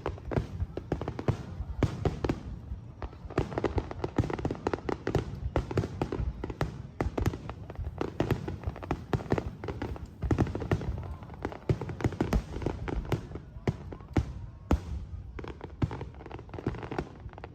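Aerial fireworks bursting in rapid, nearly continuous succession: a dense run of bangs and crackles with no pause.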